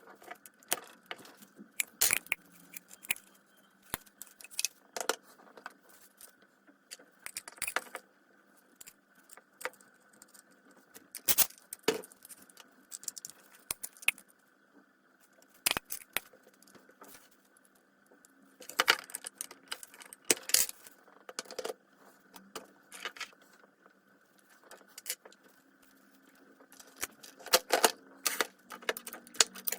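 Small metal parts and hand tools clinking and clattering irregularly as a circular saw is worked on, over a faint steady hum.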